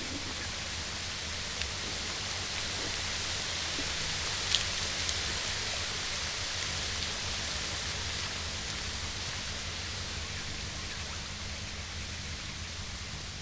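Steady rushing of flowing river water, with one brief sharp click about four and a half seconds in.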